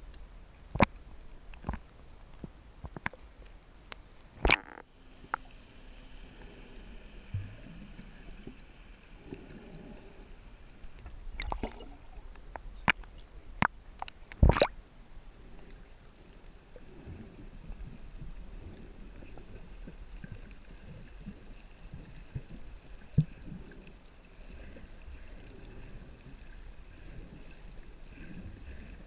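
Water sloshing and gurgling around a jet ski drifting without throttle, broken by scattered sharp knocks and clicks, the loudest a double knock about halfway through.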